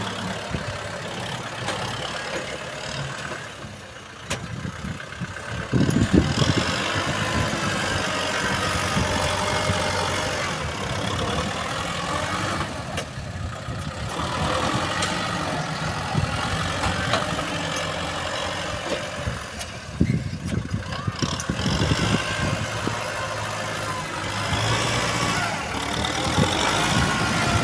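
Four-wheel-drive tractor engine running, growing louder about six seconds in.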